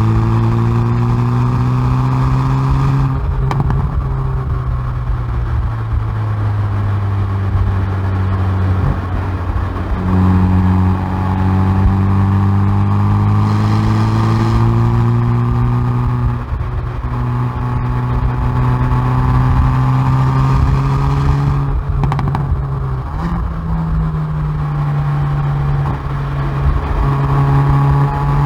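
Exhaust of a Hyundai i30N Performance's 2.0-litre turbocharged four-cylinder under hard acceleration on track, heard at the rear bumper. The note climbs steadily with the revs and drops at each gear change, several times over, with a few sharp cracks around one of the shifts near the end.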